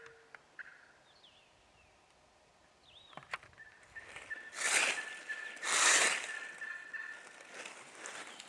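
Wild turkey gobbler gobbling twice in quick succession, two loud rattling calls about a second apart, with small songbird chirps around them.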